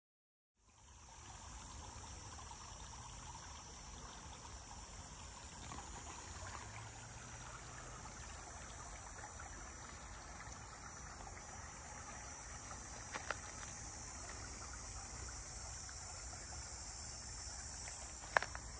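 Outdoor insect chorus: a steady, high-pitched, unbroken drone, with a low rumble of wind or handling under it. Two sharp clicks, one about two-thirds of the way in and a louder one near the end.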